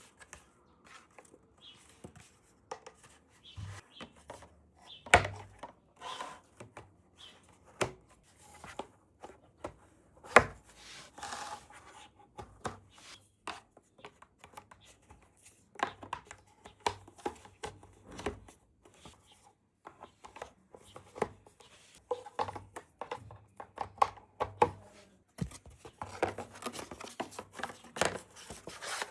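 Close-up handling of small plastic toys: irregular taps, clicks and light rubbing, growing denser near the end.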